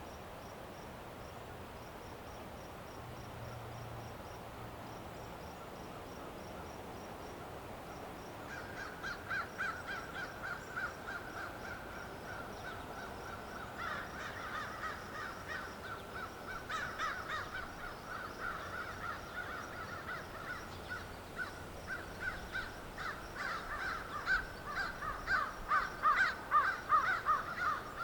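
A crow cawing in repeated runs from about eight seconds in, getting louder near the end. A faint, rapid insect chirping goes on high in the background throughout.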